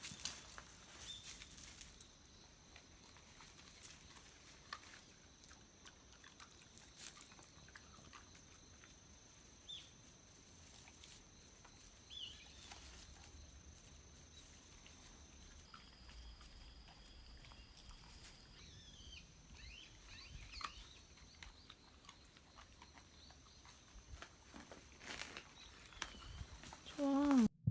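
Faint outdoor sounds: a steady high-pitched hum, scattered small clicks and rustles, and a few brief chirps, with a louder rising sound just before the end.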